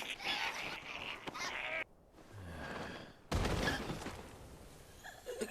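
Anime soundtrack: strained voices at first, cut off suddenly, then a low rising tone and a sudden heavy hit with a deep boom that fades over about two seconds.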